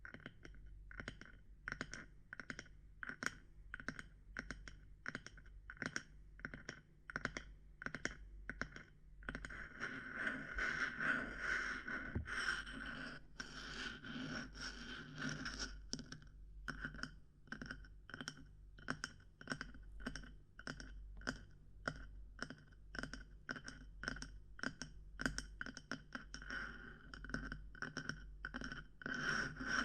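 ASMR knocking and tapping on small objects: a steady run of light, irregular taps, several a second, with a stretch of denser scratching and scraping partway through.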